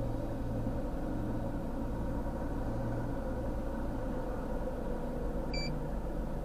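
A vehicle engine idling with a steady low hum. A single short beep sounds near the end.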